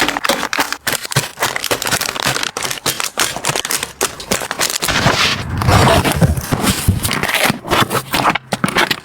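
Close-up handling of packaging and containers: rapid crinkling, clicks and scrapes, with a louder rustling stretch about five seconds in.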